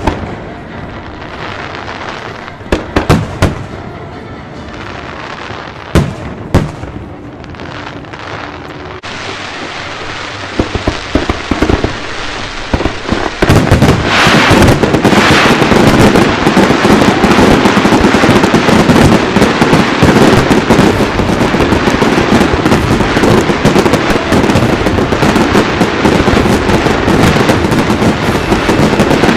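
Fireworks: a few single loud bangs with gaps between them, then from about ten seconds in a rapid crackle that builds into a dense, continuous barrage of bangs.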